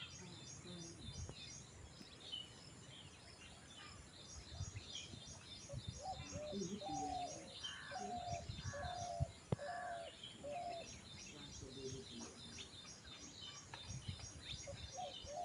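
Birds chirping in a busy morning chorus, with fast high twittering throughout. In the middle a louder bird repeats one call five times about a second apart, and a single sharp click sounds partway through.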